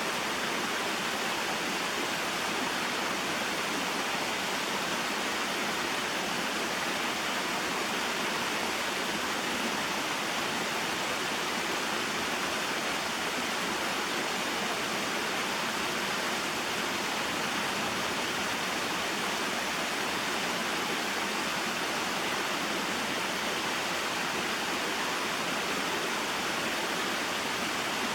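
Small mountain waterfall and stream, water falling and flowing in a steady, unbroken rush.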